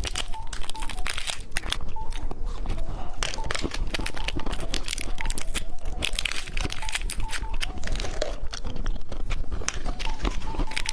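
Plastic candy wrapper crinkling as it is handled and unwrapped: a dense, continuous run of crackles.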